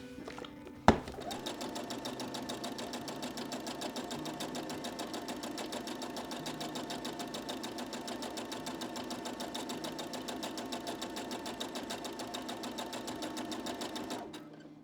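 Electric sewing machine stitching at a fast, even pace. It starts just after a sharp click about a second in and stops shortly before the end.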